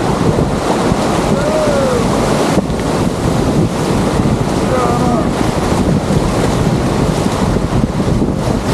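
Wind buffeting the microphone over a loud, steady rush of water, with a few faint, brief pitched calls about a second and a half in and again around five seconds.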